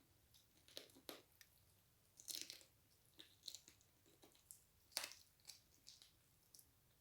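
A person chewing food close to the microphone: irregular wet mouth clicks and crunches, a cluster of them a little over two seconds in and the loudest about five seconds in.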